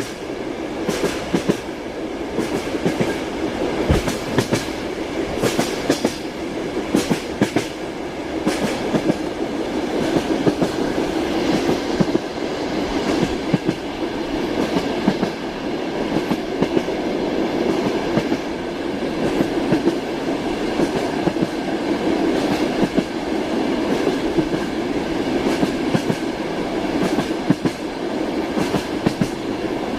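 Train wheels clattering over rail joints while running steadily: a continuous rumble with repeated, unevenly spaced clicks and knocks.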